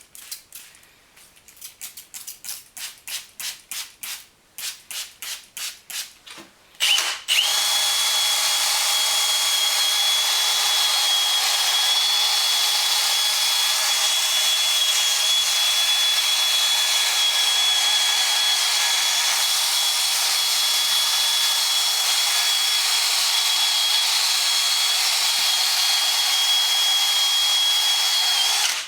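A power drill spinning a sanding pad against a plastic headlight lens, running steadily with a constant high whine from about seven seconds in and stopping just at the end. Before it starts, a quick run of short, even strokes, about three a second.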